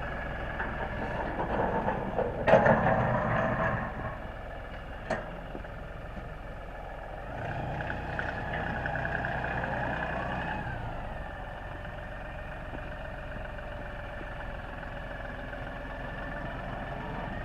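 LS compact tractor's diesel engine running steadily while plowing snow with a front blade. There is a loud clank about two and a half seconds in, and about halfway through the engine note rises for a few seconds before settling back.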